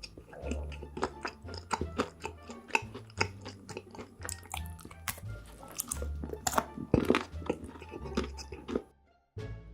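Close-miked chewing and crunching of food by a mukbang eater, many quick crunches, over background music with a steady bass line. The sound cuts out briefly near the end.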